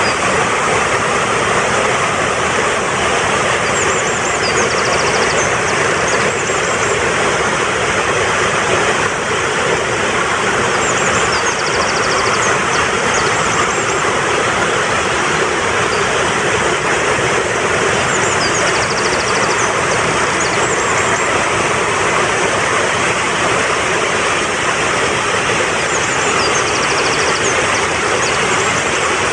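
Steady rush of a fast-flowing mountain stream. Over it, a songbird call of a few high notes followed by a quick trill repeats about every seven seconds, as in a looped bird-song tutor track.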